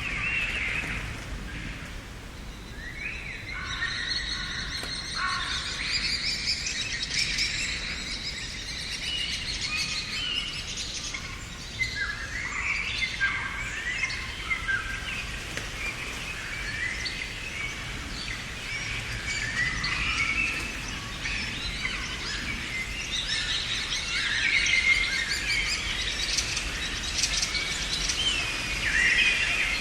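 Many small songbirds chirping and singing at once, with short overlapping calls and trills that grow busier a few seconds in, over a faint steady background hiss.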